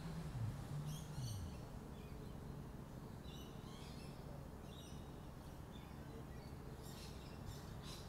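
Small birds chirping in short, scattered bursts over faint steady background noise. In the first second and a half a low hum slides downward in pitch and fades.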